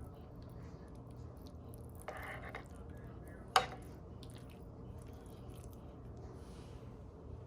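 A spoon spreading ricotta over a baking-dish layer: soft, wet squishing and scraping, with one sharp clink of the spoon against the dish a little over three and a half seconds in.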